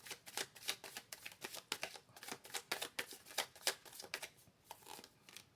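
A tarot deck being shuffled by hand: quick, rapid card-on-card clicks, several a second, that thin out and stop shortly before the end.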